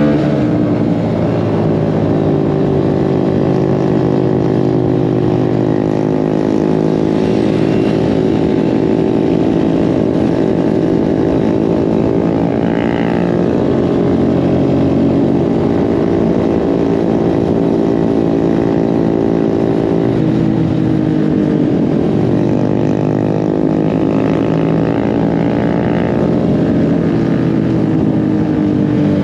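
Mini bike engine running while riding, its pitch rising and falling with the throttle.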